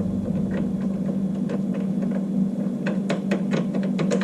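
Light metal clicks and taps of bolts being started loosely by hand on a water heater element's flange, a few at first and then several close together near the end, over a steady low hum.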